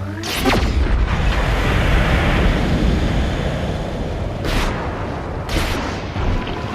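Sci-fi film sound effects of an alien spacecraft's drive and machinery: a deep, heavy rumble, with a sharp blast-like sweep about half a second in and two more near the end.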